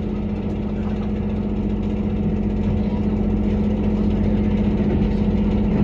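Diesel engine of a JR Kyushu KiHa 183-1000 series railcar heard from inside the passenger cabin, a steady drone that slowly grows louder. The engine makes a rattling (ガラガラ) noise that the uploader suspects is a fault or simply old age.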